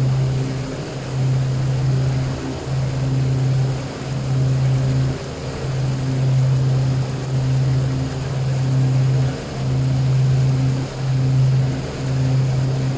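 Boat engine running under way: a steady low hum that swells and dips about every second and a half.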